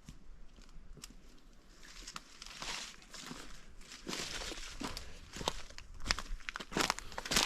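Footsteps walking along a rainforest track, crunching and rustling underfoot, with the steps sharper and closer together near the end.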